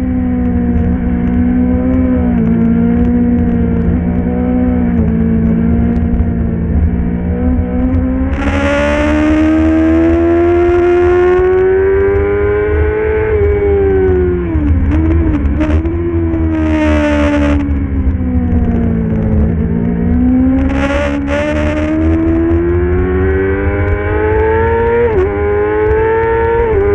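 Racing motorcycle engine running at high revs, its pitch climbing and falling as it is worked through the gears, with a sudden dip and wobble about halfway through. Short bursts of hiss cut in three times.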